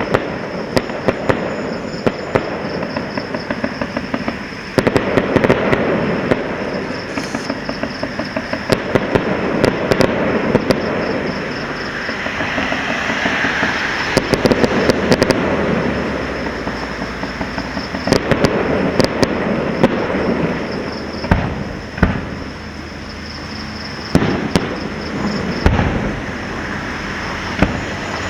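Fireworks going off: a continuous rattle of crackling and popping, with sharp bangs scattered through it and a few heavier booms in the second half.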